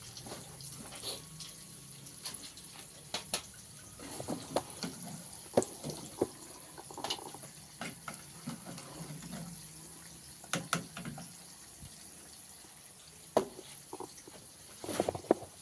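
Kitchen water splashing and dripping, with scattered short knocks and clatter.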